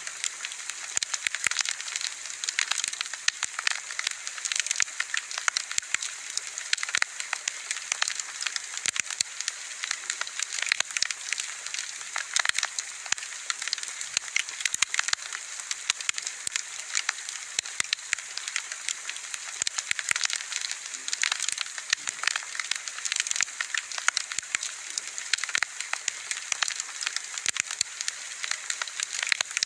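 Wood bonfire burning, with dense, irregular crackling and popping over a steady hiss.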